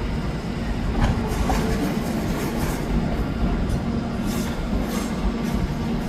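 A train running on the track: a steady rumble with a low drone, and brief high hisses at uneven intervals.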